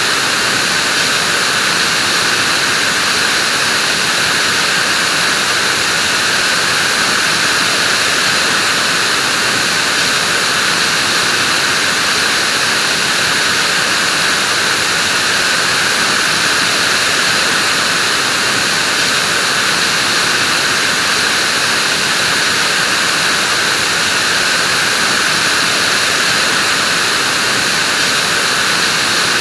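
Vacuum cleaner running steadily: a loud, even, hissing motor noise that never changes in pitch or speed.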